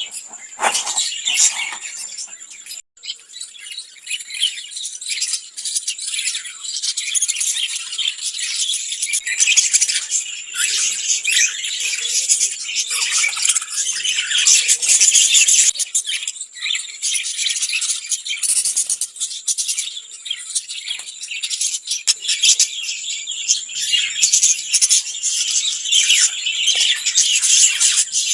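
Lovebirds chattering: a dense, continuous stream of rapid, high-pitched chirps and squeaks, with a brief break about three seconds in.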